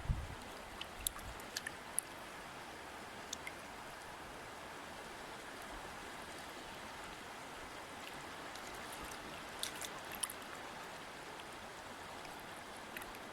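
A river's water flowing steadily, a constant rushing hiss. Scattered sharp ticks of splashing water come in the first couple of seconds and again about ten seconds in.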